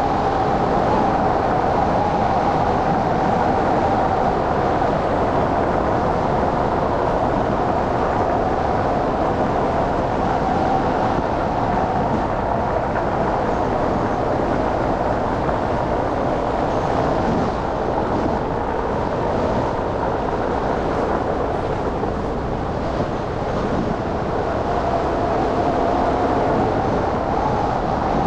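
Steady road noise from a car driving on snowy city streets, with a constant droning hum that wavers slightly in pitch.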